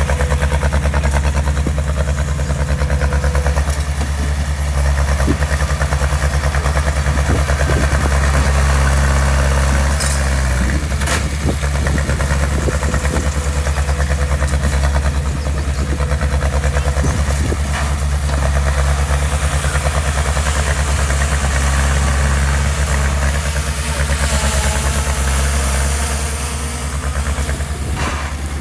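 Diesel engine of heavy construction equipment running steadily with a deep, even rumble, with a few short knocks or clanks about a third of the way in.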